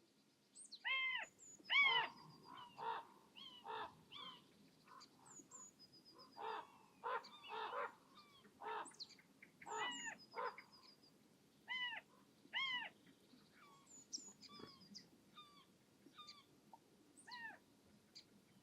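Birds calling: a steady series of short calls, each rising then falling in pitch, with fainter thin high notes between them.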